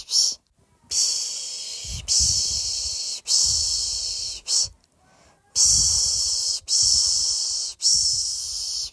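A person shushing a baby to sleep: a long 'shh' about once a second, each fading a little, with a short one and a brief pause about halfway through.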